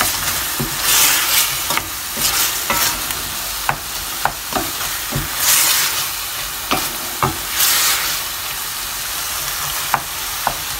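Diced chicken and spices frying in oil in a stainless steel pot, sizzling steadily and swelling as it is stirred. A spatula knocks and scrapes against the pot many times.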